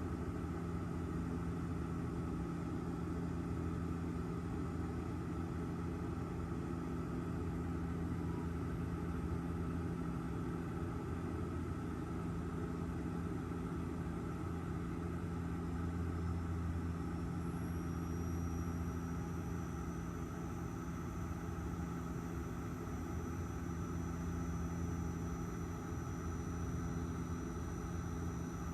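Steady drone of an airliner in flight, heard inside the passenger cabin: engine noise and airflow with an even low hum. A faint high whine comes in about two-thirds of the way through and rises slightly.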